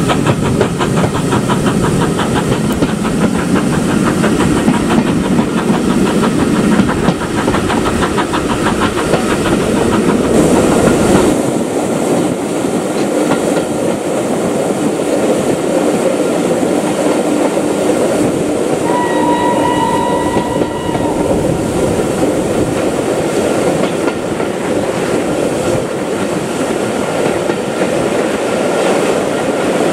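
Steam-hauled train running on the rails, with wheel clatter over the rail joints. About eleven seconds in the sound changes abruptly and loses its deepest rumble. Around two-thirds of the way through, a locomotive whistle sounds once for about two seconds.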